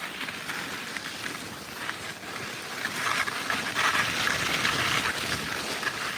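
Rustling and crunching of movement through snow, with wind noise on the microphone. It gets louder from about three seconds in.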